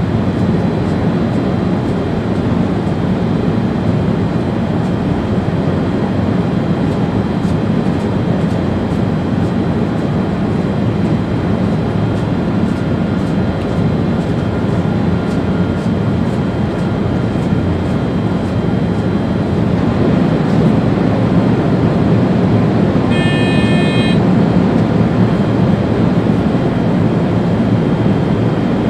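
Steady running noise of an ÖBB Railjet high-speed train heard from its driver's cab at speed: an even, low rumble from wheels and track. About 23 seconds in, a short high electronic beep sounds for about a second.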